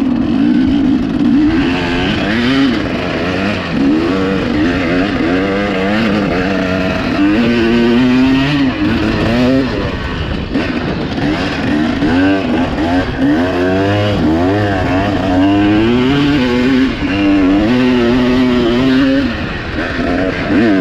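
Dirt bike engine revving, its pitch climbing and dropping again and again as the rider works the throttle and shifts gears.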